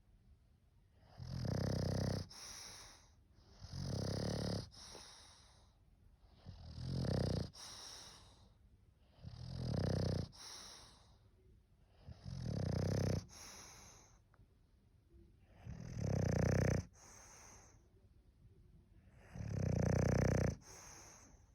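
English bulldog snoring: seven snores, one roughly every three seconds, each about a second long, with quieter breathing in between.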